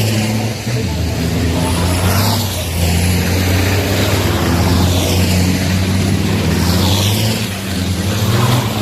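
Racing trucks' turbo-diesel engines running hard, a steady deep drone with a high whistle falling in pitch about every two seconds.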